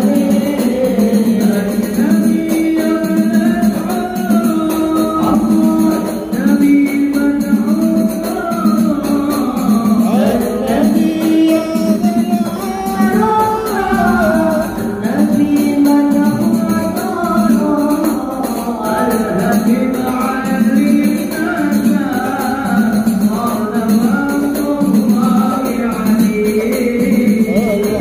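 Sholawat, Arabic devotional song in praise of the Prophet, sung in a melismatic melody over a steady beat of jingling hand percussion.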